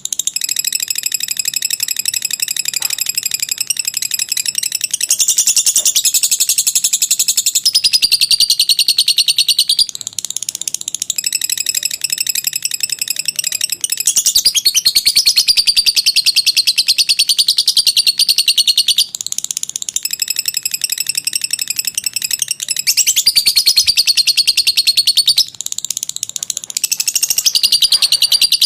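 Lovebird singing a long 'ngekek' chatter: very fast, high repeated notes in long runs of several seconds, breaking off briefly every few seconds.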